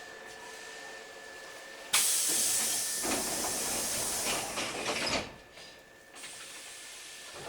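Hankyu 3300 series train's compressed-air system letting off a sudden loud hiss of air, lasting about three seconds before cutting off.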